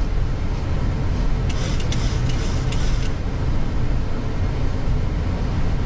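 Steady aircraft cockpit noise, the engines and airflow of an airliner climbing out just after takeoff, with a brief higher hiss between about one and a half and three seconds in.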